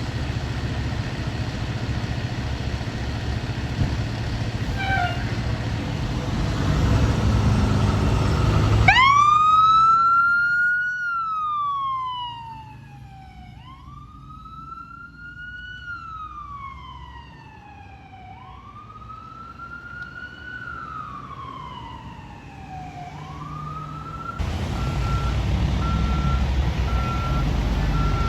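Emergency vehicles responding. A heavy vehicle's engine rumbles for about nine seconds. Then a siren wails, rising quickly and falling slowly, about every five seconds. Near the end the heavy engine rumble returns with a steady beeping tone.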